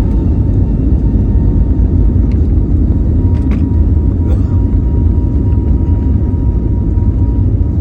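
Airliner cabin noise during takeoff: a loud, steady low rumble from the engines and the aircraft, with a faint steady whine above it and a couple of brief clicks about three and a half seconds in.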